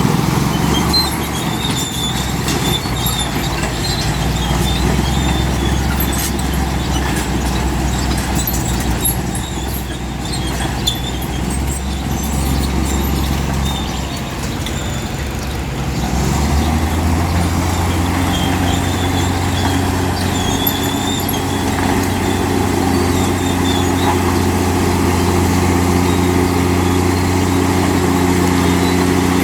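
Heavy diesel engine of a Komatsu D65P crawler bulldozer running, changing about halfway through to a steady, even drone, with faint high squeaks over it.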